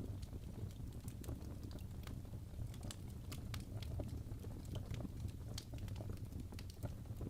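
Fireplace crackling: a steady low rumble of burning wood with irregular sharp pops and snaps.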